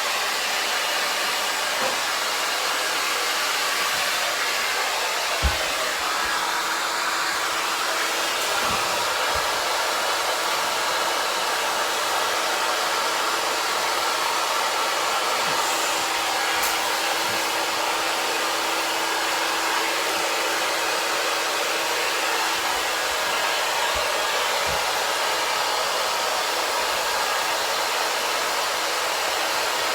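Hand-held hair dryer blowing steadily, drying a dog's coat after a bath, with a single low thump about five and a half seconds in.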